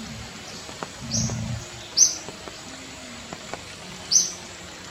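A bird's short high chirp repeating every second or two, three times, with a brief low rumble about a second in.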